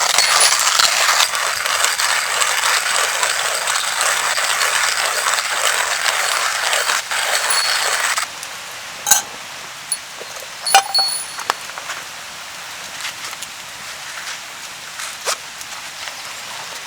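Steady rain hiss, heavy for about the first eight seconds, then dropping suddenly to a lighter patter. A few sharp metallic clinks, some briefly ringing, sound over the lighter rain.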